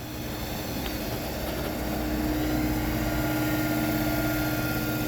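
Car engine idling with the hood open, a steady running hum that grows a little louder over the first couple of seconds.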